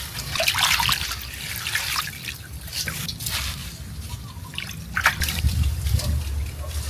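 Water splashing and trickling in irregular bursts over a low steady hum, which grows stronger about five seconds in.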